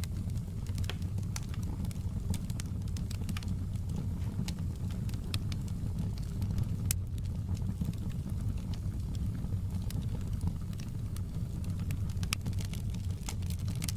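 Fire crackling in a fireplace: a steady low rumble with scattered sharp pops and snaps, coming more thickly near the end.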